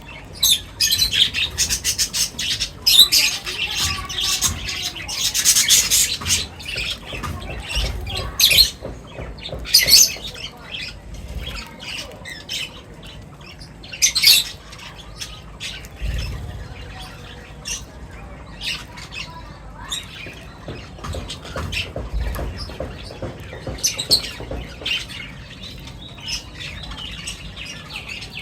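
A flock of birds calling at feeding time: many short, harsh squawks and chirps, busiest over the first six seconds, then single calls now and then.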